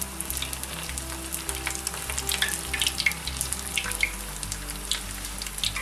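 Battered artichoke deep-frying in hot oil: a steady sizzle with scattered crackles and pops.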